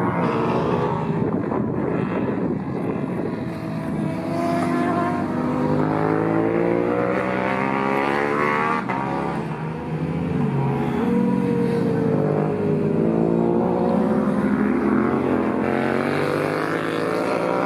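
Several racing motorcycle engines at high revs, their notes rising and falling with gear changes as the bikes pass on the track.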